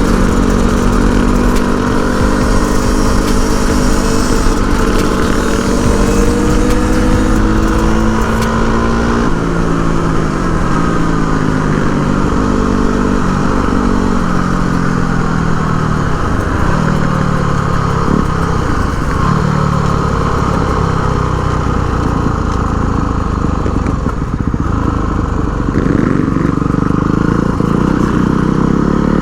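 Dual-sport motorcycle engine running under way, with wind hiss for the first third. The engine note holds steady, drops as the bike slows about a third of the way in, varies through the middle, and rises again near the end.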